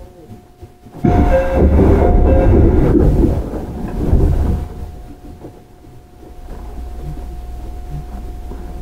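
Inside a JR 311 series electric train. A loud noise with several steady tones starts suddenly about a second in and lasts about three and a half seconds. It fades, and from about six and a half seconds a steady low rumble of the train builds.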